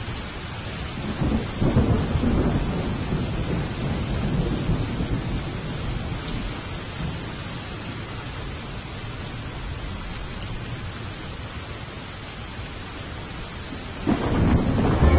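Steady rainfall with rolling thunder: a low rumble swells about a second and a half in and fades slowly, and a fresh thunderclap begins near the end.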